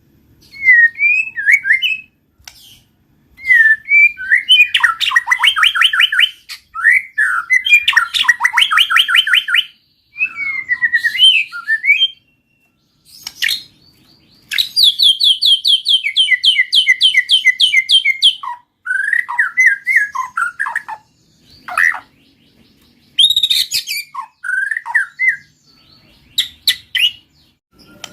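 White-rumped shama singing vigorously, with a canary also singing. The song comes in bursts of varied whistled phrases and fast, evenly repeated trills, broken by short pauses.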